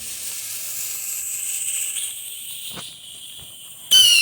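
Whistling bottle rocket (Neon Winda Traveller): its fuse hisses steadily for about four seconds, then near the end the rocket launches with a loud whistle that slides slightly down in pitch.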